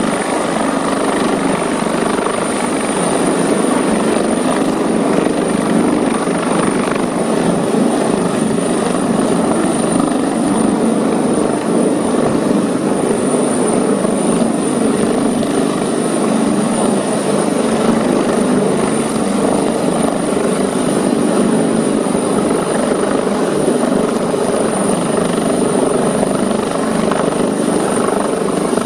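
Helicopter running close by: a loud, steady rotor and engine noise with a thin, constant high whine over it.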